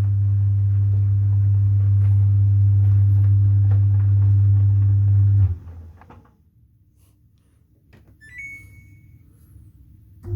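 Samsung DV80M5010IW 8 kg heat pump tumble dryer running with a loud, deep hum, which cuts off suddenly after about five seconds. The quiet that follows holds a short high chirp, and the hum comes back abruptly at the very end.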